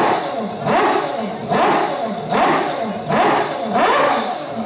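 Four-rotor Mazda rotary racing engine being blipped repeatedly, its pitch rising sharply and dropping back about once a second, about six times.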